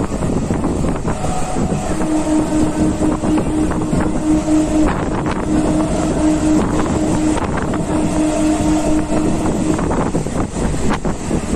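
A local train running at speed between stations, heard from on board: loud steady running noise from the wheels and rails, with wind buffeting the microphone. A steady low tone sounds over it in the middle, stopping briefly twice before it ends.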